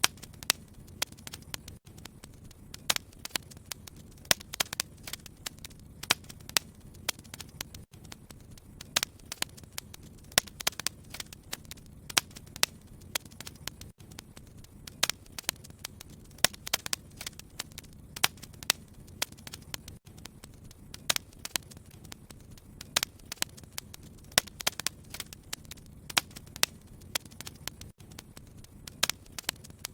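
Wood fire crackling, with frequent irregular sharp pops and snaps over a low steady rush of flame.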